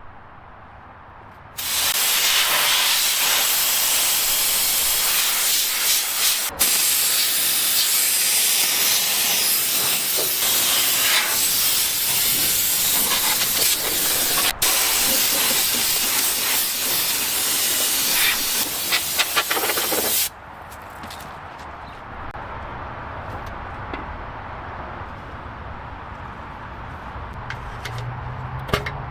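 A high-pressure jet hissing loudly and steadily for about eighteen seconds, cutting out for an instant twice, then stopping suddenly. A quieter low rumble with scattered small ticks follows.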